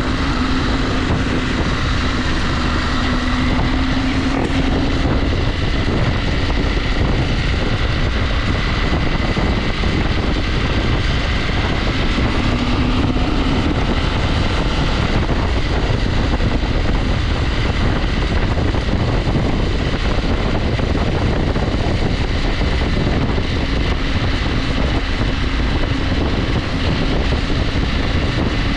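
KTM 890 Adventure's parallel-twin engine running at a steady riding pace, its pitch wavering slightly with the throttle, under a constant rush of road and wind noise.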